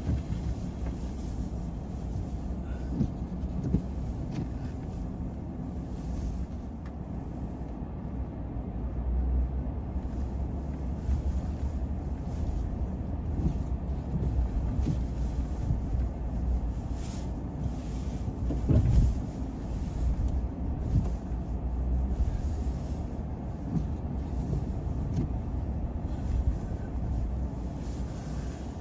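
A car driving, with a steady low rumble of engine and road noise and scattered knocks and bumps, the loudest about 19 seconds in.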